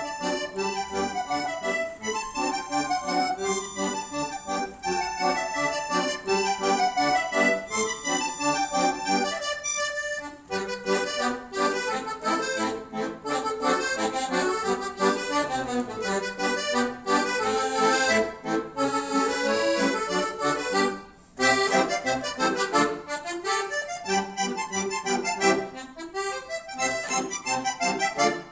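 Duet of two accordions playing a lively tune, with quick moving notes over held chords. The music breaks off briefly twice, about ten seconds in and again about two-thirds of the way through.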